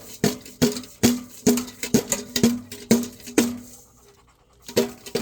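A metal pan beaten over and over to call chickens, each strike ringing briefly, about two strikes a second; the beating stops for about a second and resumes with two more strikes near the end.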